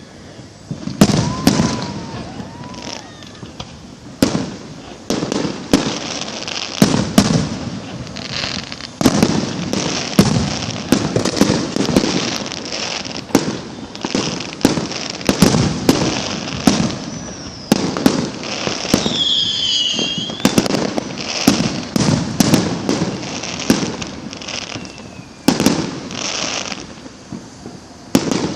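Fireworks going off in quick succession: repeated sharp bangs, several a second at the busiest points, with crackling between them. A few high whistles glide in pitch about two-thirds of the way through.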